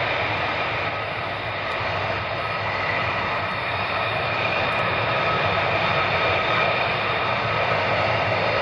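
Fighter jet engine running with a steady, loud rushing noise and a faint high whine held at a constant pitch.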